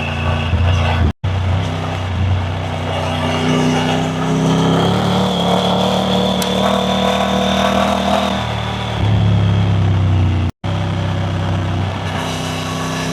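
Triumph Tiger 900 Rally Pro's three-cylinder engine running under way, its note holding and then shifting in pitch, with a drop about nine seconds in. The sound cuts out briefly twice, about a second in and again near the end.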